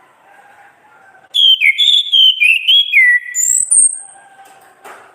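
Orange-headed thrush singing one loud phrase of clear whistled notes that slide downward in pitch. The phrase starts abruptly over a second in, lasts about two and a half seconds, and ends with a few thin, very high notes.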